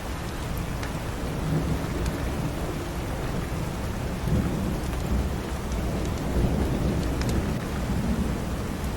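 Steady rain with a long, low roll of thunder that swells from about a second and a half in, peaks twice, and eases near the end. Faint scattered crackles of a wood fire sit over it.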